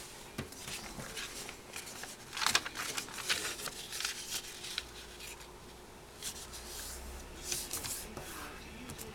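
A sheet of origami paper rustling and crinkling as it is handled and folded by hand, in irregular crisp crackles, loudest about two and a half seconds in.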